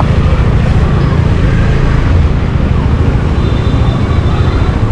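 Steady road noise from a moving vehicle in traffic, with a heavy low rumble throughout.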